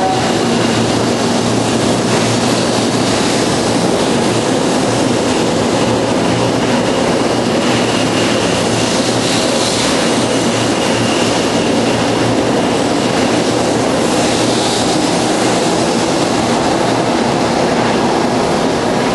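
Series 0 Shinkansen train departing, its cars rolling past close by with a steady, loud rumble of wheels and running gear.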